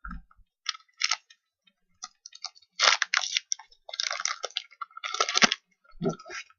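Foil wrapper of a basketball trading-card pack being torn open and crinkled by hand, in a series of short, irregular crackling bursts.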